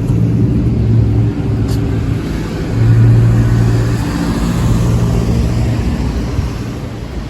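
A vehicle running with a low steady hum and a rushing noise that swells in the middle and eases off near the end.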